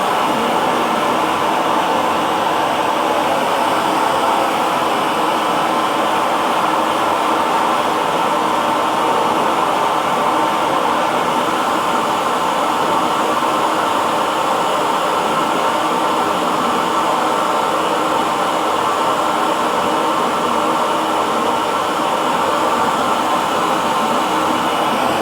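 Handheld hair dryer running steadily: an even rushing noise of the fan and blown air with a faint steady hum.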